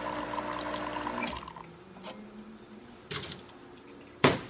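Rocket espresso machine's pump running with water flowing through the group during a test shot, a steady hum over a hiss that stops about a second in. A soft knock follows, then a sharp clack near the end.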